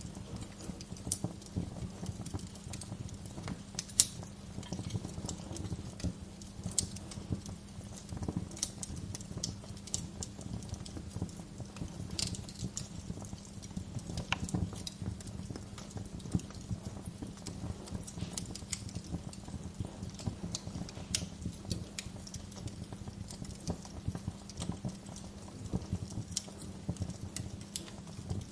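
Wood fire crackling in a fireplace: irregular small snaps and pops over a steady low rumble, with one sharper pop about four seconds in. A faint steady low hum runs underneath.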